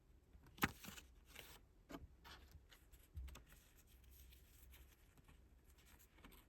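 Faint handling of album packaging: paper and plastic rustling and tapping, with a sharp tap just over half a second in and a dull thump about three seconds in.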